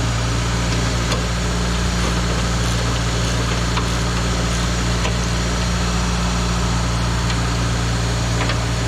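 Steady low mechanical drone of a motor or engine running at a constant pace, with a few faint clicks scattered through it.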